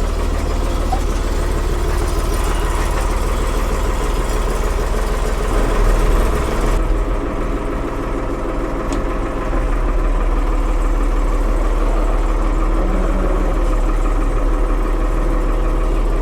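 The 1975 Ford 550 backhoe's engine running steadily with a deep rumble; about seven seconds in the sound turns duller, losing its high end.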